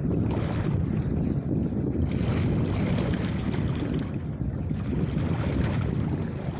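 Wind buffeting the microphone on the open deck of a fishing boat at sea: a loud, steady low rumble with gusts that come and go.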